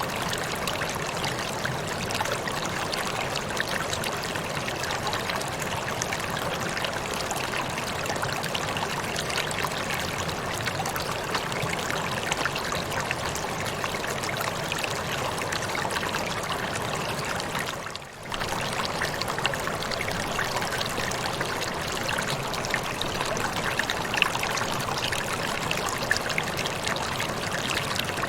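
Waterfall rushing steadily, falling water spread evenly from low to high, with a brief dip in level about two-thirds of the way through.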